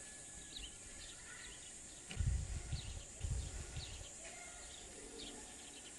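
Small birds chirping: many short, high chirps repeated over a steady hiss. Two brief low rumbles come about two and three seconds in.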